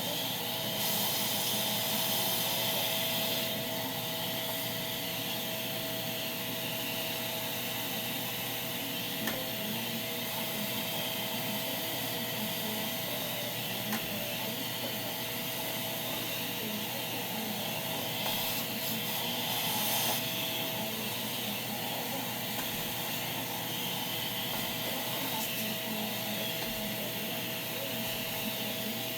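Shark vacuum cleaner running steadily, its motor whine holding one pitch under a strong airflow hiss. The hiss grows louder and brighter twice, about a second in and again near two-thirds of the way through.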